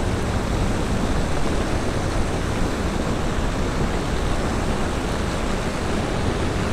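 Steady rain, heard as an even hiss with a low rumble on the microphone.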